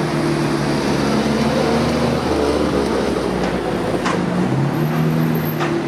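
Vintage car engine running steadily as the car drives past at low speed.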